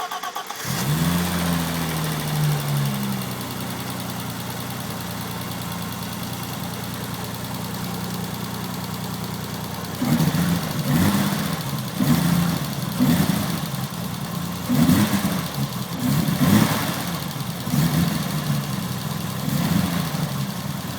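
BMW E30 race car engine catching on a cold start, flaring briefly and falling back to a steady idle. From about halfway it runs unevenly, surging up and down again and again: the stutter it always has when cold.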